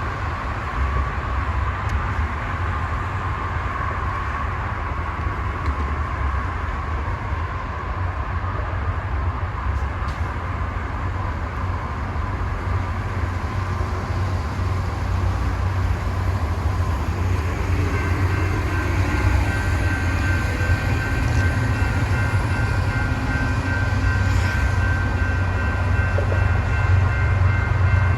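Union Pacific diesel freight train approaching with a steady low rumble that slowly grows louder. About two-thirds of the way through, a locomotive air horn sounds a held chord that carries on to the end.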